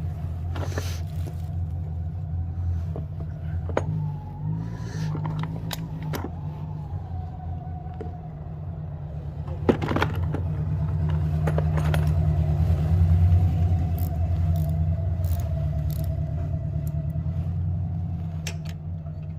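An engine idling steadily, with scattered light metallic clinks of hand tools on metal parts.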